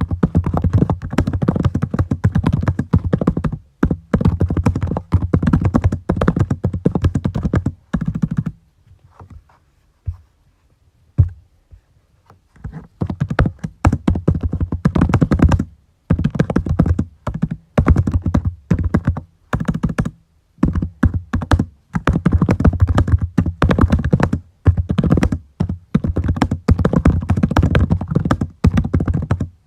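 Typing on a computer keyboard: fast runs of keystrokes, stopping for a few seconds about a third of the way through, with one louder knock during the pause.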